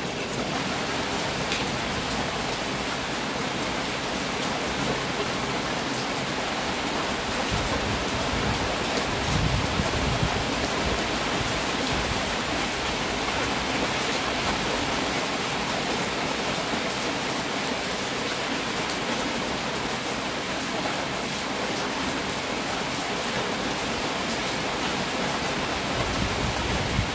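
Heavy rain falling steadily as a dense, even hiss of drops, with a brief low swell about nine seconds in.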